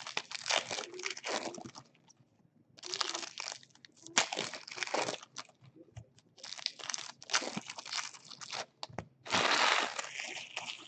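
Baseball card packs being torn open, their wrappers crinkling and crackling in several bursts with short pauses between them.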